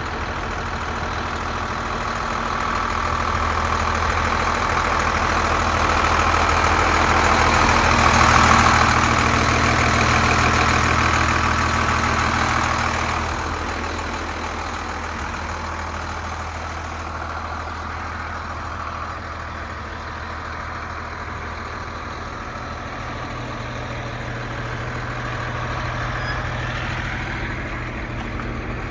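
Caterpillar 3126 diesel engine of a Freightliner FL80 truck idling steadily. It grows louder toward about eight seconds in and drops back about thirteen seconds in.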